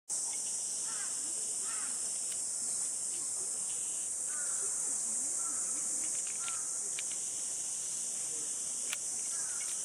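A steady, high-pitched chorus of summer cicadas, with faint short bird chirps scattered through it and a single sharp click near the end.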